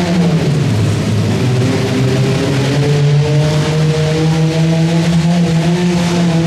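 Modified pulling garden tractor engine running hard under load: its pitch sags sharply just after the start, bottoms out about a second in, then climbs back and holds at a steady high rev.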